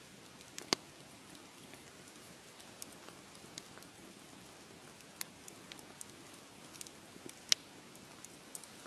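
Wood fire crackling: a soft steady hiss with scattered sharp pops, two of them much louder, one about a second in and one near the end.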